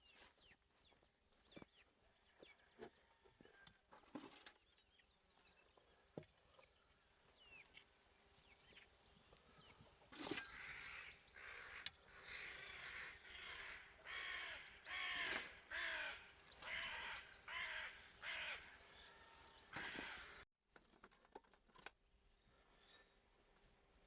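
Faint outdoor quiet, then a run of harsh, repeated bird calls, about one a second for some ten seconds, that cuts off abruptly.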